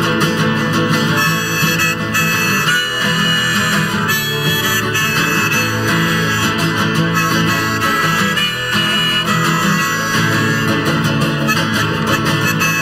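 Acoustic guitar strumming a country-blues rhythm with a harmonica playing an instrumental solo over it.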